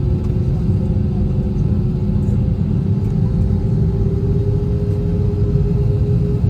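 Inside the cabin of an Airbus A321-231, its IAE V2500 turbofan engines running: a steady low rumble with a steady hum that rises slightly in pitch near the end.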